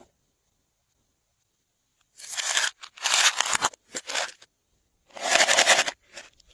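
Glossy slime being squeezed and worked by hand, giving four bursts of wet crackling and popping, the last one the longest.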